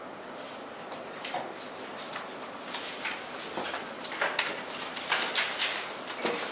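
Computer keyboard keys clicking in irregular runs as people type, busier in the second half.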